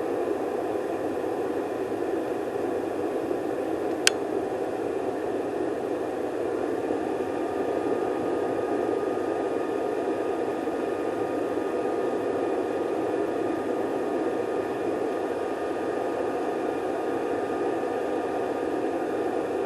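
Campfire burning with a steady rushing hiss, and one sharp pop about four seconds in.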